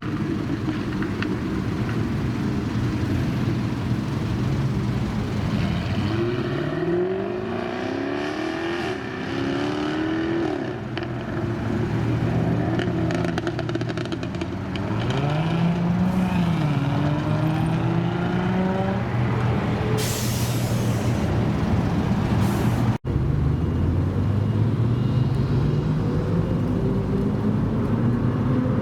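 Car engines accelerating away, their pitch rising through the revs several times, with a brief hiss about two-thirds of the way through. After a sudden break near the end, another engine rises steadily in pitch.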